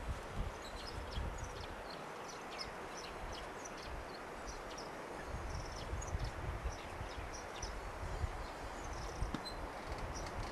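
Outdoor ambience: many short, high bird chirps scattered over a steady hiss, with irregular low rumbles on the microphone.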